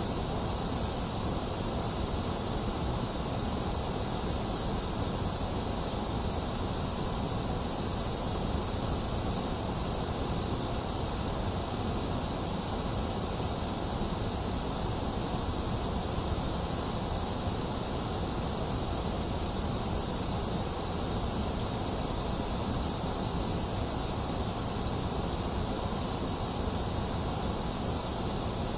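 Box fan running steadily together with falling rain: an even, unchanging rush of noise, a low rumble beneath a high hiss.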